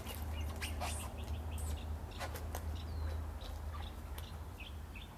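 Birds chirping in short, scattered calls over a steady low rumble, with a few sharp clicks.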